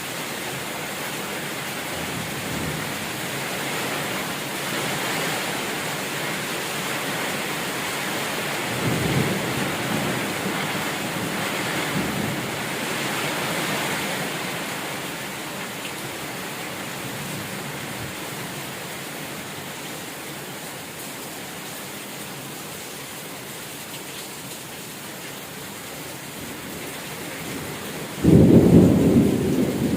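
Heavy rain falling steadily in a thunderstorm, with low thunder rumbles about nine and twelve seconds in. A loud clap of thunder breaks suddenly near the end and rumbles on.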